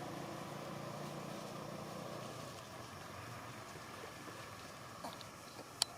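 A steady engine hum that fades away over the first few seconds, then a single sharp click near the end.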